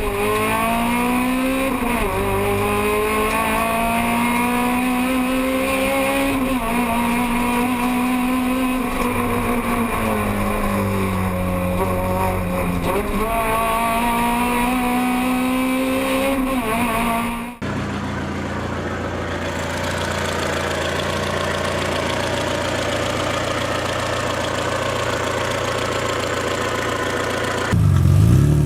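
A four-cylinder car engine accelerating hard through the gears, its pitch climbing and then dropping back at each of several gear changes. About two-thirds of the way through it cuts abruptly to a steadier, lower engine note.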